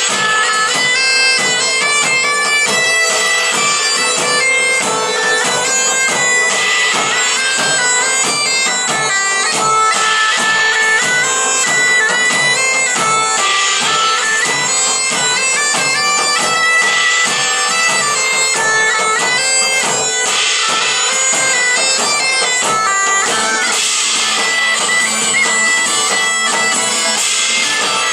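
Live medieval-style band music led by bagpipes playing a melody over a steady drone, with a regular drum beat underneath.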